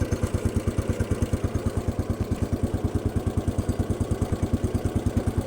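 Cub Cadet garden tractor's single-cylinder Kohler engine idling steadily just after starting, with an even beat of about twelve firing pulses a second.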